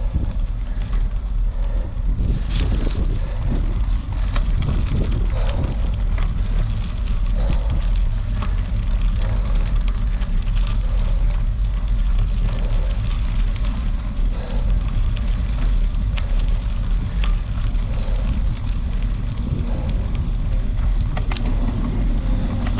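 Wind buffeting the microphone of a bicycle ridden in rain, a steady low rumble with scattered crackling ticks from the tyres and the wet road surface.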